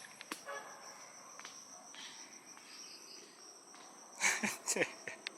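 Insects trilling steadily at a high pitch. A brief, louder sound with a falling pitch comes about four seconds in.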